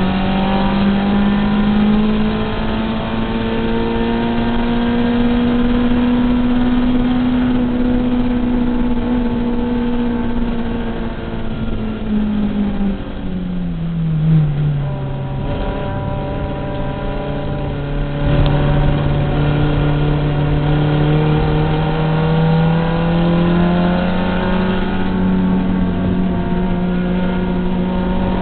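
Race car engine heard from inside the cabin, running hard at high revs. Its pitch falls sharply about halfway through, then holds lower and climbs steadily again near the end.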